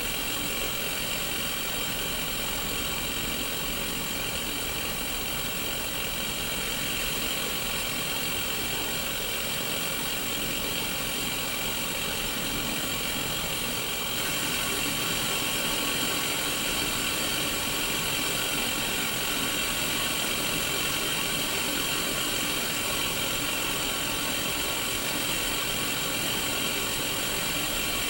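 Untuned static hiss from a Sony Mega Watchman mini CRT TV's speaker: a steady hiss with faint steady tones in it, stepping up slightly in level about halfway through.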